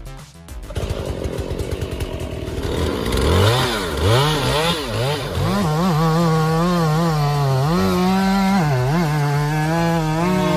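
Chainsaw engine just started: a rough, sputtering run at first, then revving up and down several times before holding a steady high speed, with a couple of brief dips in revs.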